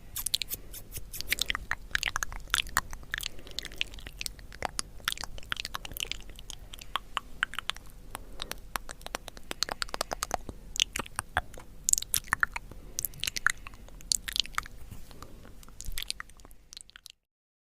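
Close-miked crunching and crackling of hard candy, a dense run of sharp cracks that cuts off suddenly near the end.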